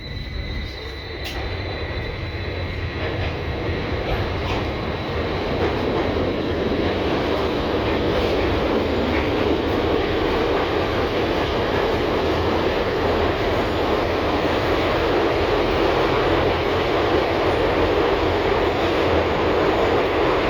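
LVS-2009 tram running on rails, heard from inside the passenger cabin. The running noise swells over the first several seconds as the tram gathers speed, then holds steady. A faint high whine fades out within the first few seconds.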